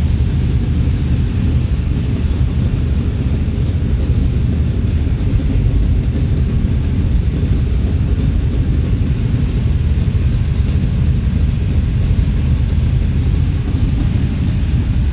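The Scarab race car's 377-cubic-inch small-block Chevy V8 runs at a steady speed on a chassis dyno: a loud, even, low rumble with no revving.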